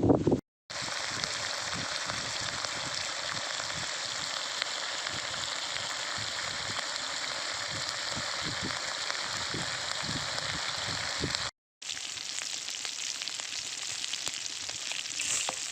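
Duck frying in hot oil: a steady, dense crackling sizzle that drops out briefly twice, just after the start and about twelve seconds in.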